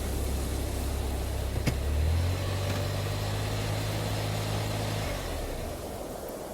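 An engine running with a steady low hum; its pitch steps up about two seconds in, and it dies away about five seconds in, leaving a faint hiss. A single sharp click comes just before the pitch change.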